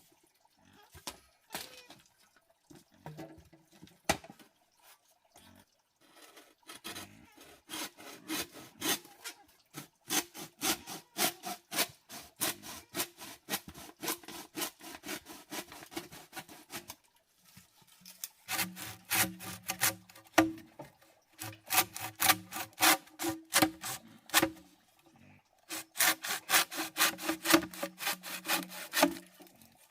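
Rapid, rhythmic back-and-forth scraping strokes like hand sawing, in three long runs with short pauses between them, after a few scattered knocks.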